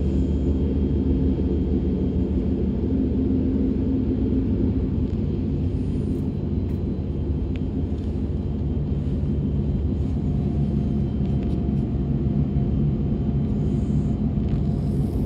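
DB Class 425 electric multiple unit heard from inside the passenger compartment while running: a steady low rumble of wheels and running gear, with a few faint steady tones above it.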